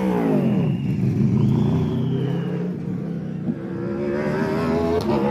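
Race car engines on a street circuit: one car's engine note drops away sharply as it passes, then another engine note holds steady and climbs gradually from about three and a half seconds in, with a brief click near the end.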